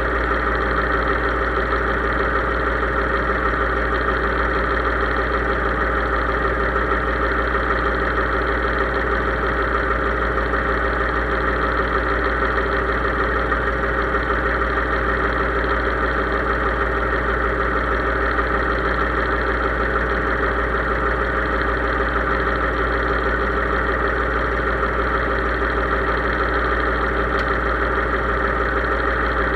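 Case IH 3220 tractor's diesel engine running steadily at a constant speed.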